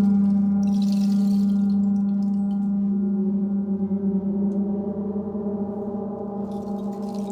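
A low-pitched singing bowl rings on with a steady tone and overtones. Its hum pulses with a slow wobble that grows as the tone slowly fades. A soft high hiss over it stops under a second in and comes back near the end.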